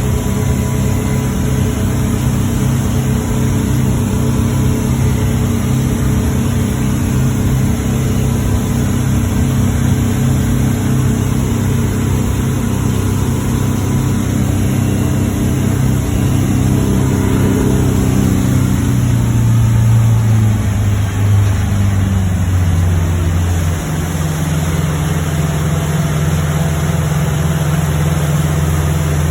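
Sea Ray 220 DA's turbo diesel engine running steadily. Between about 17 and 21 seconds in, its pitch falls as it is throttled back, and it then runs steady at the lower speed.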